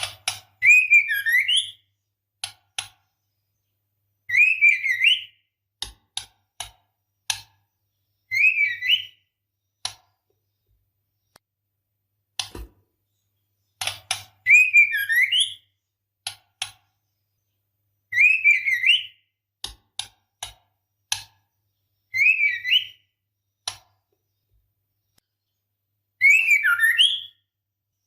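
Female white-rumped shama giving short warbling whistled call phrases about every four seconds, with sharp single ticks in between: the calling of a female in breeding condition.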